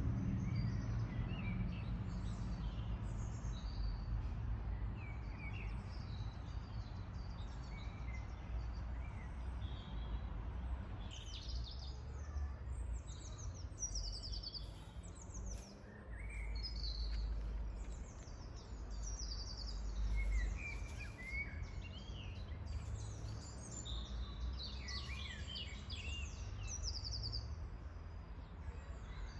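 Several small songbirds singing and chirping, with quick trills and short calls throughout, over a steady low rumble.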